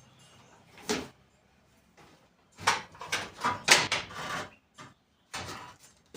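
A sharp knock, then a run of scraping and clattering and another short scrape near the end, from a car radiator and its surrounding parts being handled and pulled out.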